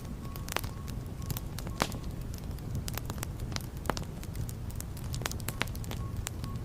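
Wood fire in a fireplace crackling: sharp, irregular pops and snaps over a steady low rumble of the flames, with the loudest pops about half a second, two seconds and four seconds in.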